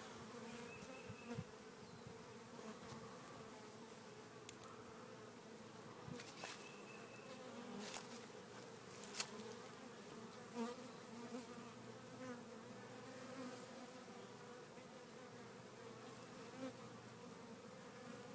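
Honey bee swarm buzzing as a faint, steady hum, with a few brief clicks scattered through it.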